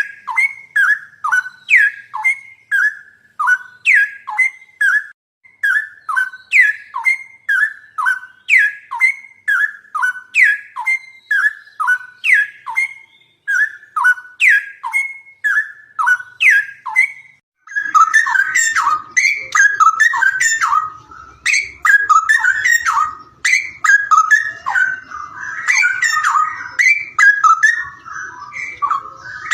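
Songbird singing: a steady run of short, clear whistled notes, each sliding down in pitch, about two a second. About two-thirds of the way through it changes to denser, jumbled chirping with several calls overlapping.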